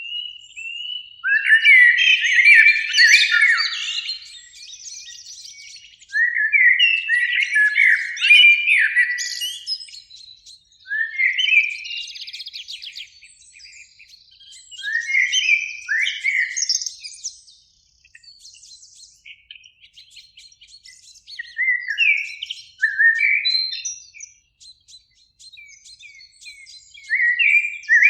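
Common blackbird singing: about six warbled, fluty phrases of a few seconds each, separated by pauses, several ending in thin, high twittering.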